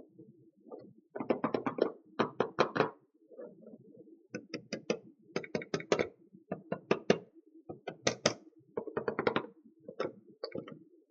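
Small plastic toy pieces being handled, making quick runs of clicks and taps with short pauses between them.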